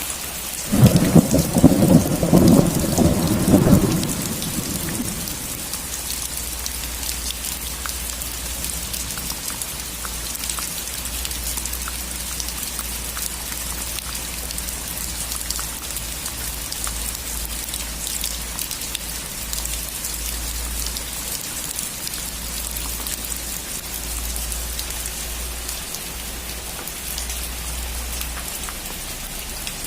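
Steady rain on a roof, a dense hiss of many small drops. About a second in, a loud clap of thunder breaks out and rumbles for about four seconds before dying away under the rain.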